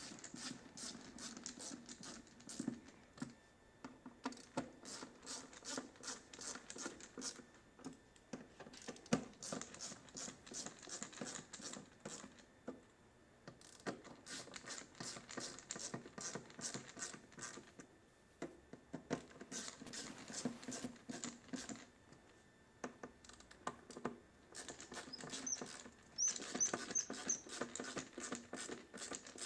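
Faint bursts of rapid small clicking and scratching from cable ties being pulled tight around a motorcycle audio wiring harness, with parts handled in between.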